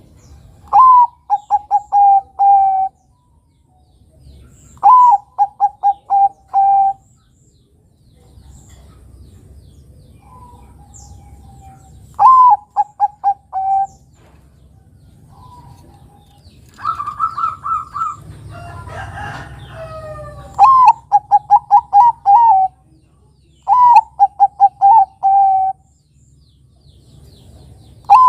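Zebra dove (Bangkok-type perkutut) singing its staccato cooing song. Each phrase opens with a higher falling coo, runs into a quick series of short coos and ends in a longer one. The phrase repeats every few seconds, and a higher, different run with a brief jumble of other sound comes about two thirds of the way through.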